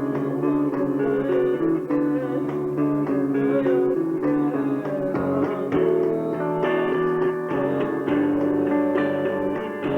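A rock band playing live, led by guitars over bass, in a passage with no singing. The sound is dull, with nothing of the top end, as heard through a camcorder's microphone.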